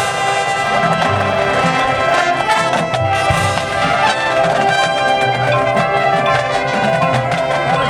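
Marching band brass section playing loud sustained chords, trumpets and trombones over drum hits.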